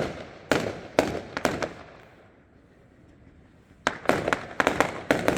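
Fireworks going off in sharp bangs, each trailing off briefly: about five in the first second and a half, a lull, then a rapid volley of bangs near the end.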